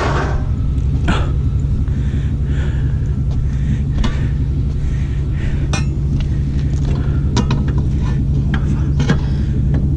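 An engine running steadily at idle, a low even rumble, with scattered sharp metallic clinks and knocks every second or two, typical of chains and metal parts shifting while a tractor is winched onto a trailer.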